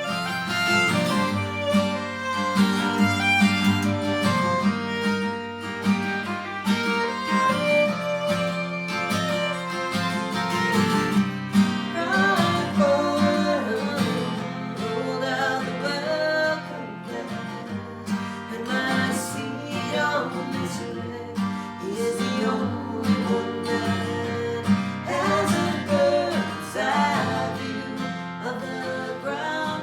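Live acoustic folk song: strummed acoustic guitar under a wavering melody line, with singing in places.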